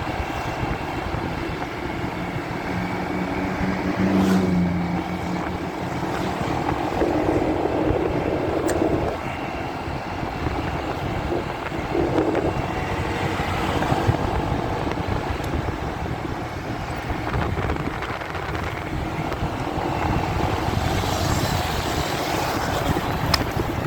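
Continuous motorcycle riding noise, engine and traffic with wind, muffled through a phone carried in a pocket.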